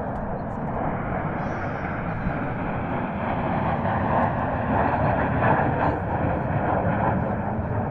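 Military aircraft passing overhead: a steady rushing roar that swells to its loudest about five seconds in, then eases off slightly.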